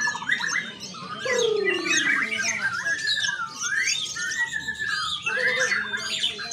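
Many caged songbirds singing at once, a dense tangle of overlapping whistles, trills and chirps. A single lower falling call comes about a second in.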